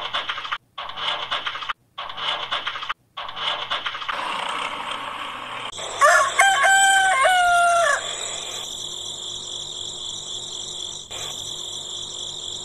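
A rooster crows once, about six seconds in: one drawn-out call of about two seconds that drops in pitch at the end. Before the crow there is choppy farmyard chicken noise with brief breaks. After it a steady high whine continues over a faint low pulsing.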